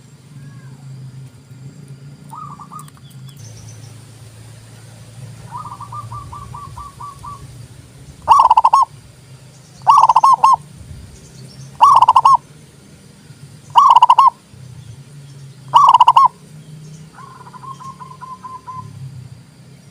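Zebra dove (perkutut) singing: a row of five loud, rolling coos about two seconds apart, with quieter runs of quick repeated coo notes before and after them.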